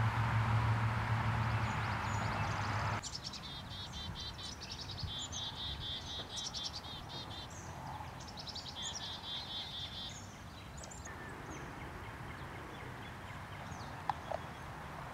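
A steady low hum that cuts off abruptly about three seconds in, followed by a songbird singing fast trills of repeated high chirps for several seconds.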